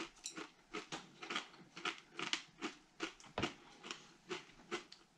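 Crisp snack being chewed close to the microphone: a run of short, dry crunches, about three a second.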